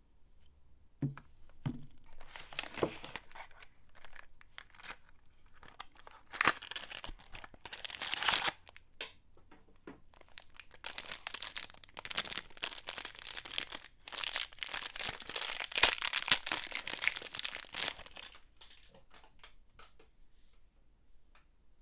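Soap wrappers being unwrapped by hand: packaging crinkling and tearing in several bouts, the longest and loudest in the second half, with a couple of soft knocks near the start.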